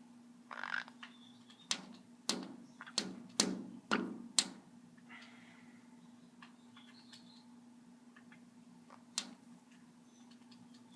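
Green-cheeked conure in its cage: a short rustle under a second in, then about seven sharp taps and knocks in quick succession and a single one later, with a few faint short chirps, over a steady low hum.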